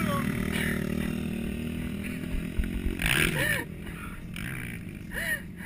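Racing quad engines running and fading away about three seconds in, leaving quieter background with a few short sounds.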